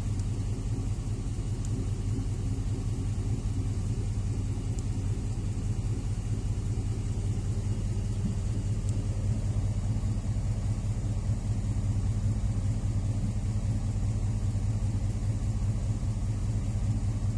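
Ford F-150's 5.0 L V8 idling steadily with a low, even rumble, run after an oil change to circulate the fresh oil.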